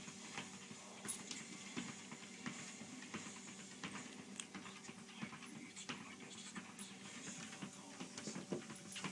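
A dog panting quietly, with scattered light clicks and taps and a steady low hum underneath.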